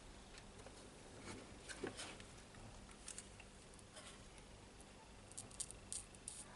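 Quiet bench work: faint scattered ticks and light taps of small tools and parts being handled, with a quick cluster of sharper ticks near the end.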